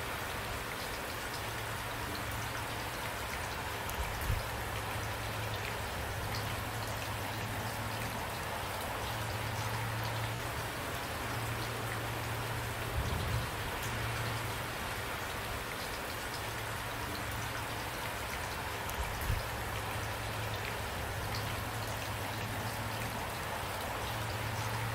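Steady rain falling, an even dense patter, with a few brief low thumps about four, thirteen and nineteen seconds in.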